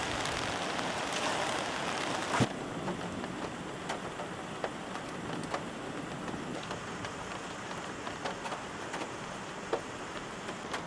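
Rain falling, first as a dense, even hiss; about two and a half seconds in there is a sharp click and the sound changes abruptly. After that the rain is softer, with scattered drops ticking close by.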